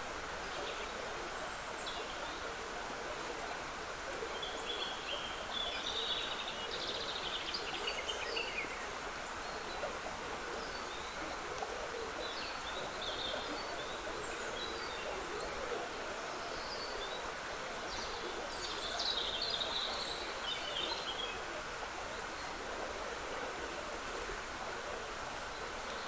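Small woodland stream trickling steadily, with songbirds singing short, twittering phrases over it, busiest about six to nine seconds in and again around nineteen to twenty-one seconds.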